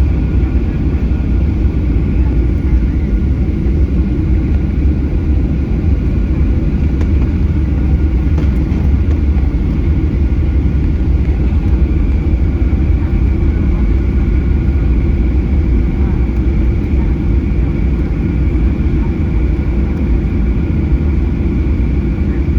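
Steady cabin noise of a Boeing 737-800 with its CFM56-7B turbofan engines running, heard from inside the passenger cabin: a loud, low, even noise with faint steady whining tones above it.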